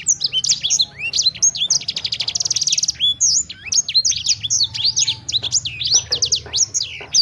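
A songbird singing a fast, continuous, varied song of high down-slurred whistles, with a rapid trill of quick repeated notes about two seconds in. A low steady hum runs underneath.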